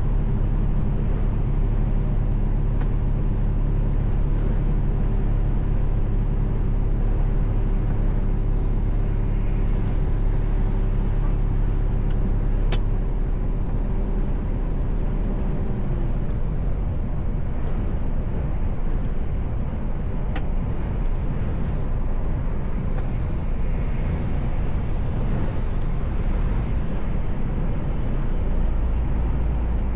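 Mercedes-Benz Actros L truck heard from inside the cab while driving: a steady engine drone over tyre and road rumble. About halfway through, the engine's steady hum drops away, leaving mostly road rumble.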